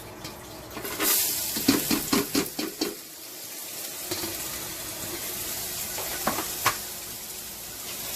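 Chopped onions tipped into hot cooking oil in a pot: a sudden burst of sizzling about a second in, with a run of scraping and clinks from stirring, then a steady frying hiss with one sharp clink near the end.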